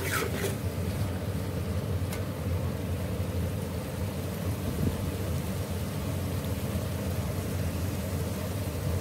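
Boiled chickpeas frying in spiced masala in an aluminium pot: a steady sizzle with a low rumble underneath, and a few spoon scrapes against the pot in the first couple of seconds.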